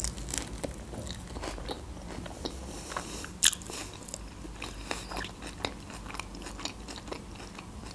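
A person chewing and biting food close to the microphone, a string of small mouth clicks and crunches, the sharpest about three and a half seconds in.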